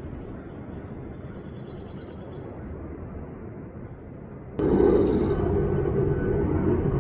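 Steady outdoor background rumble that suddenly gets much louder about four and a half seconds in, with a few faint high bird chirps over it.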